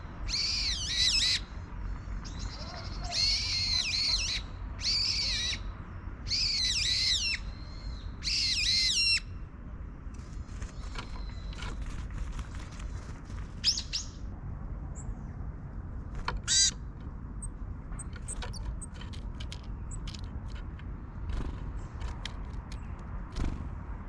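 A small wild bird calling in loud, repeated phrases about a second long, six of them in the first nine seconds, each a sweeping, buzzy, many-layered call. After that come scattered sharp taps and clicks, with one more short call about sixteen seconds in.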